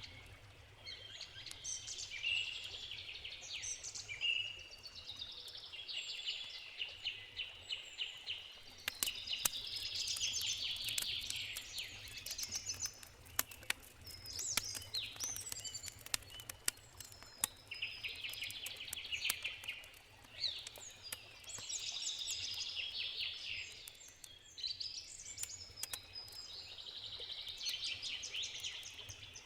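Forest birds singing in repeated chirping phrases, over the scattered crackles and pops of a wood campfire and a low, steady river rush.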